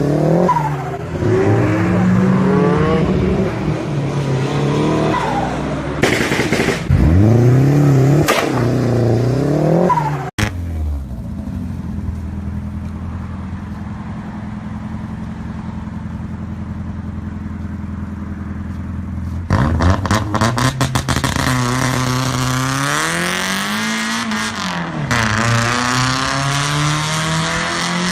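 Mazda Miata engines in several clips cut together: an engine revving up and down hard, then after a sudden cut a steady engine drone, then a rapid run of exhaust pops and crackles followed by more revving.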